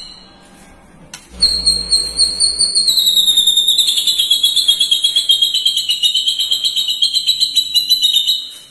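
White-rumped shama (murai batu) singing a long, unbroken lovebird-style 'ngekek' trill: a rapid, high-pitched chatter that starts about a second in and runs on for about seven seconds, dipping slightly in pitch partway through.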